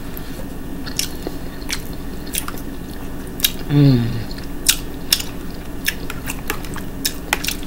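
Close-miked eating: open-mouthed chewing and lip smacking in sharp, irregular clicks, with a short falling "mmm" about four seconds in. A steady low hum runs underneath.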